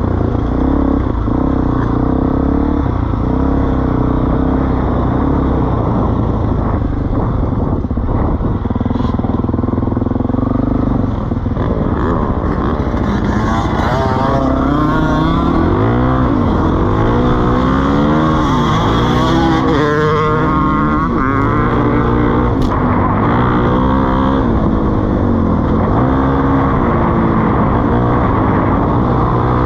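Suzuki DR-Z400E single-cylinder four-stroke engine through a Pro Circuit T4 exhaust, idling steadily. About halfway through it is blipped up and down several times, then it settles back to a steady idle.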